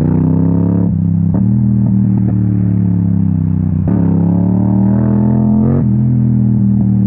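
Yamaha MT-07's parallel-twin engine through an Akrapovic exhaust under way: the revs climb and break at a gear change about a second in, then climb again from about four seconds to a second gear change near six seconds.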